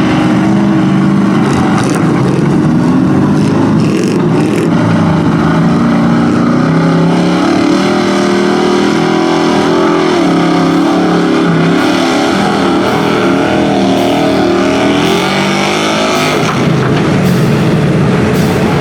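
Lifted mud truck's V8-type engine revving hard and unevenly as it drives through the mud pit, its pitch surging up and down.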